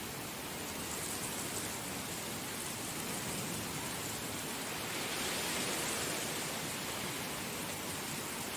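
Heavy rain falling steadily, a dense even hiss that swells slightly about five seconds in.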